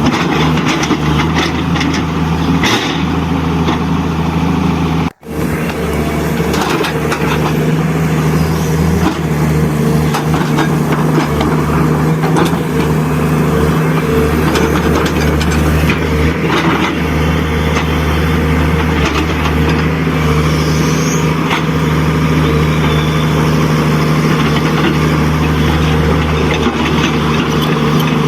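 Steady diesel truck-engine sound from radio-controlled construction models, with small clicks and scrapes over it. The sound cuts out briefly about five seconds in, then carries on.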